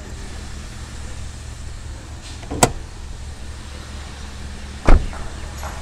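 Two sharp clunks from a Toyota Axio's body about two seconds apart, the second louder and deeper, as the bonnet is unlatched and opened, over a steady low hum.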